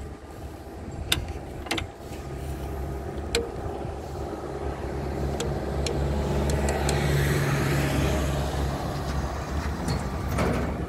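Eicher tractor's air-cooled diesel engine running, kept on a little throttle because it will not idle on its own; the exhaust note builds up to a peak about seven or eight seconds in and then eases off. A few sharp clicks sound in the first few seconds.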